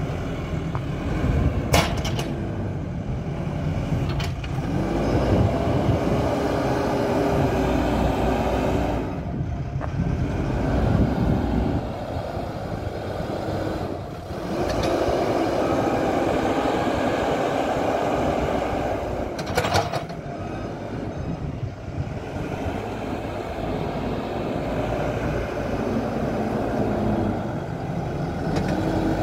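MST 642S backhoe loader's diesel engine running under load, its pitch rising and falling as it works, with a few sharp knocks.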